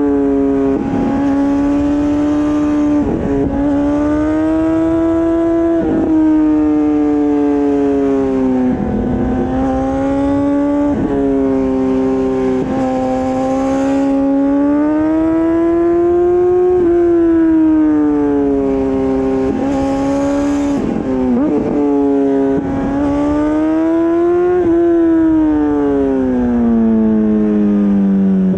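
Honda CBR600RR inline-four engine through an Akrapovič exhaust, running at high revs under way. The pitch rises and falls repeatedly as the throttle opens and closes, then drops lower near the end before climbing again.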